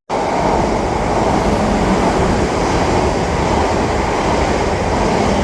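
South Western Railway passenger train running through the platform, a loud, steady rumble of wheels on rails.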